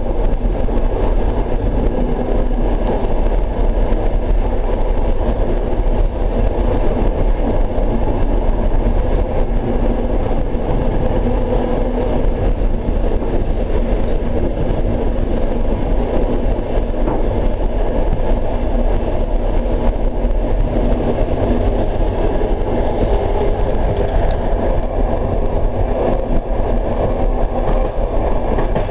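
Suburban train running along the track, a steady rumble of wheels on rails and carriage noise heard from inside the train.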